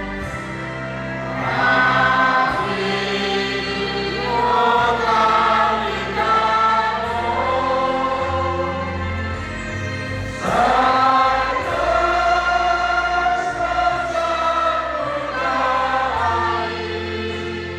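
A group of voices singing a slow hymn in long phrases, with steady held low notes underneath.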